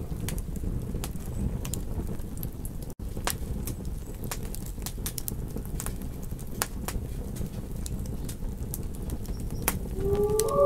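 Campfire crackling: irregular sharp pops and snaps over a low steady rumble, with a split-second dropout about three seconds in. A wolf howl begins faintly near the end.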